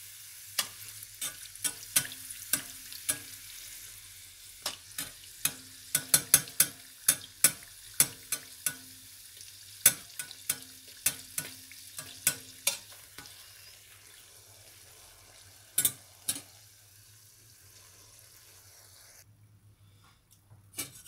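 A samosa frying in hot oil in a pan, sizzling steadily with many sharp pops and clicks as a metal slotted spatula works it. The pops thin out after about 13 seconds and the sizzle dies away near the end.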